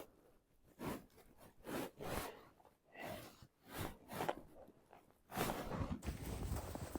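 Clothing rustling as layers are put on: a few short swishes of fabric, then steadier rustling from about five seconds in.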